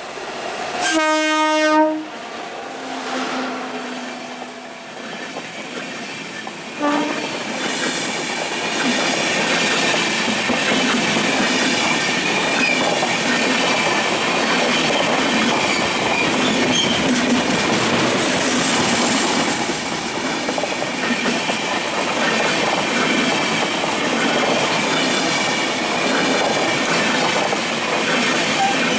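A train horn sounds one loud blast about a second in, then a fainter lower horn note and another short toot about seven seconds in. A train then passes at speed, a steady loud rush with wheels clattering over the rail joints.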